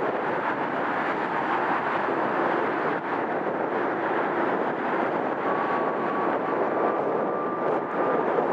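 Jet airliner passing, its engines giving a steady rushing noise, with a thin whine joining about five and a half seconds in and rising slightly in pitch.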